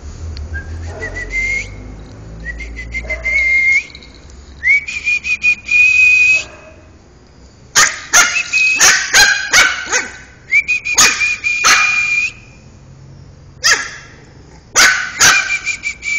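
A puppy whining in long, high-pitched cries that rise and then hold. About halfway through, and again near the end, it breaks into quick runs of short, sharp barks.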